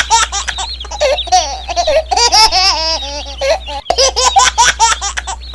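High-pitched giggling and laughter, many short rising and falling bursts, over a steady low hum.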